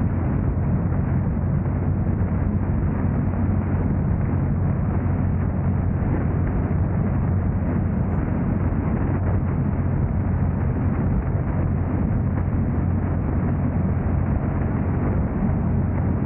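Steady low rumble of a moving car: road and driving noise with an even hiss above it, unchanging throughout.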